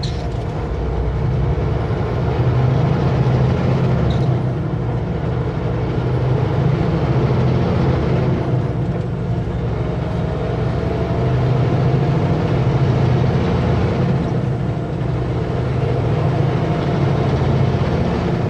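Kenworth W900L semi-truck's diesel engine running steadily while the truck drives, with road noise and a low drone that swells and eases slightly.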